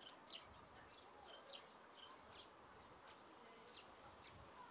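Faint bird chirps: several short, high notes, each falling in pitch, spaced irregularly about a second apart over near silence.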